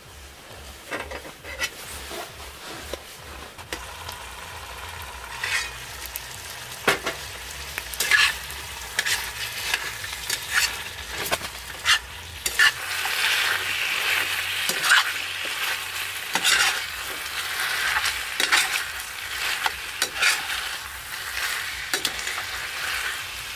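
Masala chicken sizzling in a steel frying pan on a portable butane stove while a metal spoon scrapes and clacks against the pan as it is stirred, with the spice powders just added. The sizzling grows louder about halfway through.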